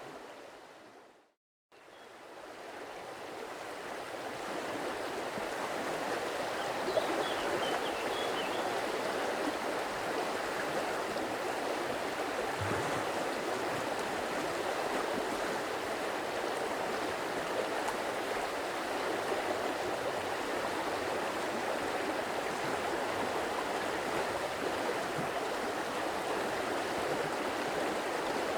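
Stream water flowing in a steady rushing babble. It drops out to silence about a second in and fades back up over the next few seconds, and a few faint high bird chirps come about seven seconds in.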